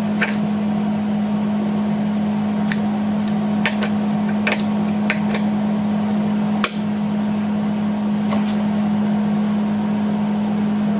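A steady machine hum fills the shop, with scattered light metallic clicks and taps over it as parts and tools are handled.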